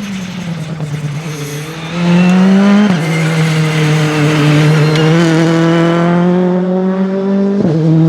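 A rally car's engine under hard acceleration as the car comes closer and much louder about two seconds in. Its pitch rises, drops sharply with a gear upshift about three seconds in, climbs slowly again and drops with a second upshift near the end.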